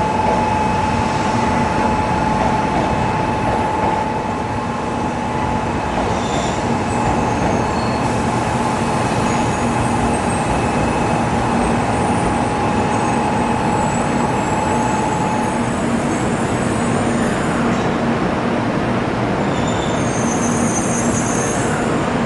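Shinkansen train running: a steady rumble of wheels and running noise with a steady whine that stops about 15 seconds in, and faint high squeals near the end.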